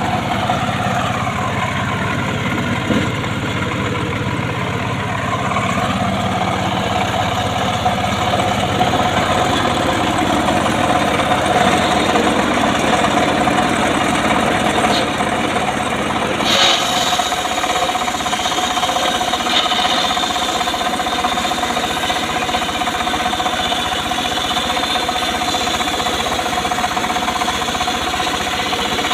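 Engine-driven homemade circular saw running steadily with a constant hum. About halfway through the sound changes abruptly and a high whine sets in.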